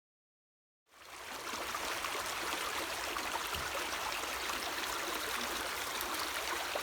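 Dead silence, then about a second in a steady rush of running stream water fades in and holds.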